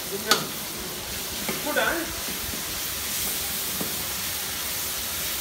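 Onions frying in a steel wok with a steady sizzle while a metal spatula stirs them, with one sharp clink of the spatula against the wok about a third of a second in.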